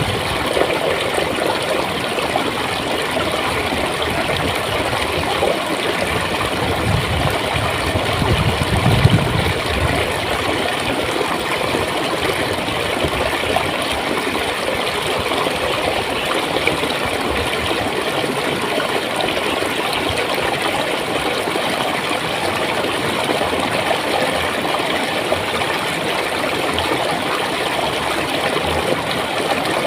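Clear water flowing and gurgling steadily over stones in a stream, with a brief low rumble about nine seconds in.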